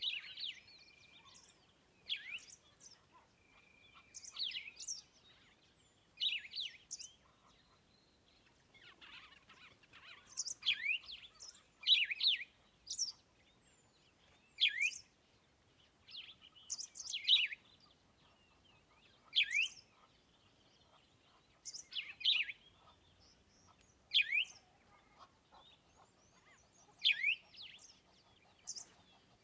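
A bird calling over and over: a short, falling chirp about every two seconds, with fainter high-pitched chirps in between.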